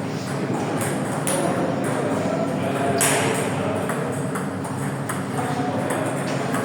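Table tennis balls clicking sharply and irregularly off bats and tables, with one louder hit about three seconds in, over the murmur of voices in a hall.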